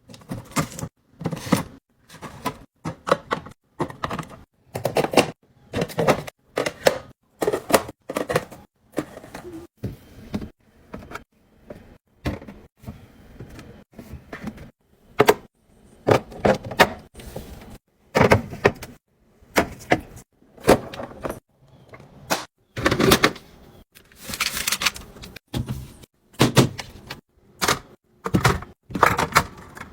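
Irregular clatter of containers and food items being handled and set down while a fridge is cleaned and restocked: many short knocks and clicks in quick, uneven succession, with brief pauses between.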